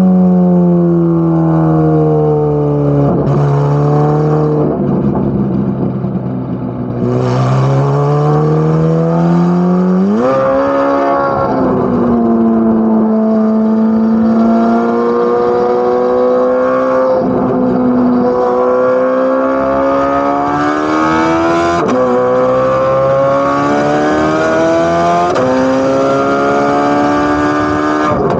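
Chevrolet Corvette C8 Z06's flat-plane-crank V8 exhaust. Its pitch falls over the first few seconds as it slows, then climbs as it accelerates. In the second half it pulls hard through three quick upshifts, the pitch dropping sharply at each shift before rising again.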